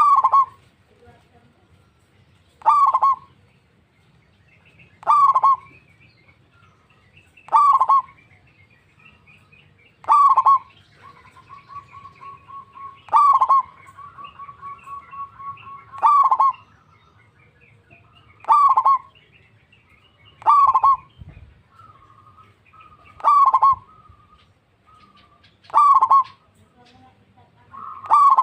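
Zebra dove (perkutut) calling: a short, loud note repeated about every two and a half seconds, with a quieter rapid trilling coo between some of the calls.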